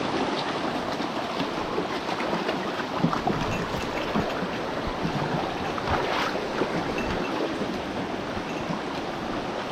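Mountain stream rushing over rocks: a steady, even wash of running water, with a few small splashes and ticks on top.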